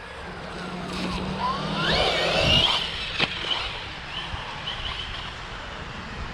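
Electric RC car's motor whining and rising in pitch under throttle, loudest about two to three seconds in, with a sharp knock shortly after.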